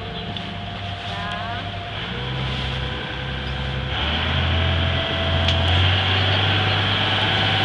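Boat engine running steadily, growing louder about four seconds in.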